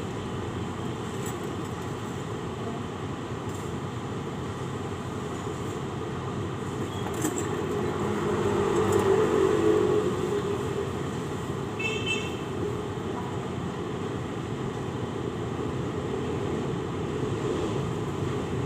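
A steady low mechanical rumble like vehicle noise, swelling for a couple of seconds about eight seconds in, with a few faint clicks and a brief high squeal near the middle.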